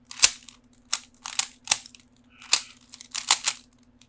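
Rubik's Cube being twisted quickly: a run of short, irregular plastic clicks and scrapes, some coming in quick clusters of two or three.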